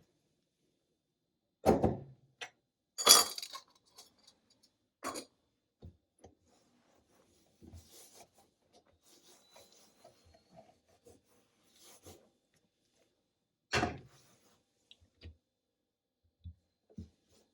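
Coffee-making equipment and cups being handled: scattered clinks and knocks of metal and glass, the loudest about two, three and fourteen seconds in, with faint scraping between them.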